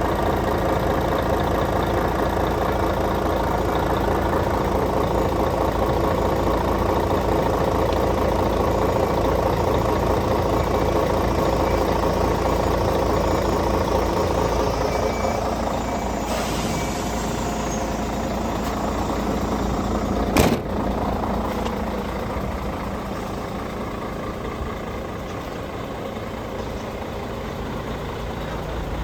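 MAN TGA 18.410 tractor unit's six-cylinder diesel engine idling steadily, with one sharp knock about twenty seconds in.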